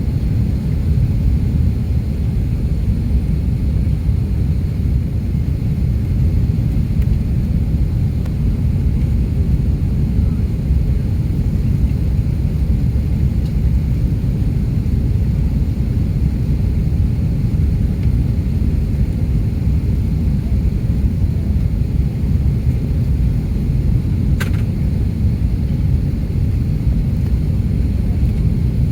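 Steady low rumble of engine and airflow noise heard inside the cabin of an Airbus A330-300 airliner, with one brief click about three-quarters of the way through.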